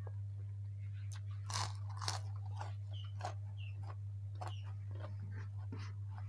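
Close-miked chewing of crunchy food, with two loud crunches about one and a half and two seconds in, then a run of smaller crunches and wet mouth clicks. A steady low hum lies underneath.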